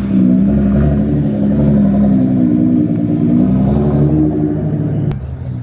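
A car engine running close by, its pitch drifting up and down a little, then cut off abruptly by a click about five seconds in.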